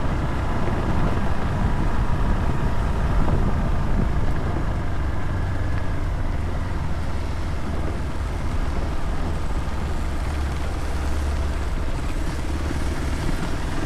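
Motorcycle running while being ridden, with engine and road noise making a steady low rumble.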